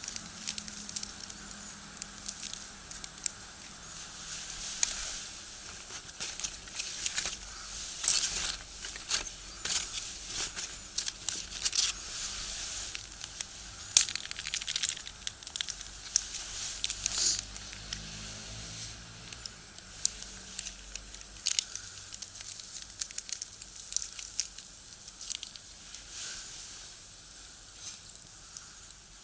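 Firewood burning in a small box stove, crackling and popping irregularly over a steady hiss, with the sharpest pops about a third and about halfway through.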